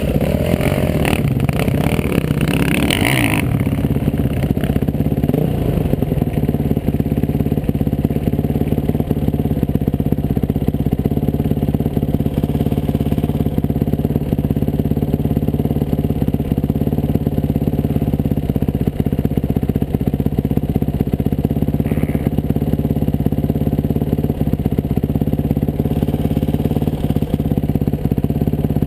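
Dirt bike engine running at a steady speed. It is rougher and noisier for the first few seconds, then settles into an even note.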